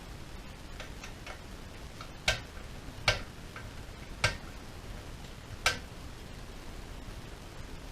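Four sharp clicks of hard objects, irregularly spaced about a second apart, with a few fainter ticks in between, over a steady hiss.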